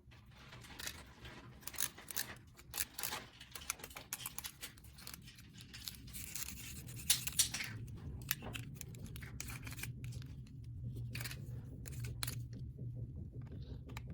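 Irregular light clicks, scratches and scrapes of small objects being handled, with a faint low hum from about six seconds in.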